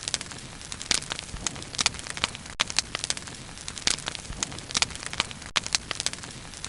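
Bonfire burning, crackling with irregular sharp pops over a steady soft hiss.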